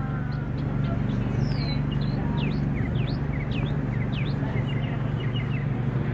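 Small birds chirping in a string of quick, high chirps over a steady low machine hum.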